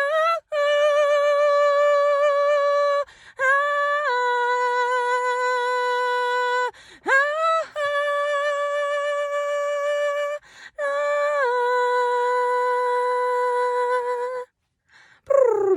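A woman singing unaccompanied, holding four long wordless notes of several seconds each with short breaths between. Each note dips slightly in pitch just after it starts.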